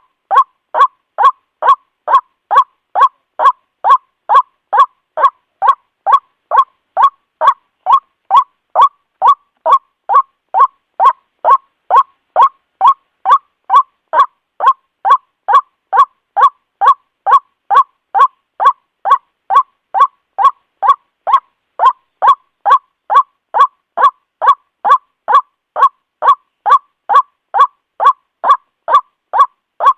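White-breasted waterhen calling: an unbroken, even series of short 'ruak' notes, about two a second, the kind of call used as a lure to draw waterhens in.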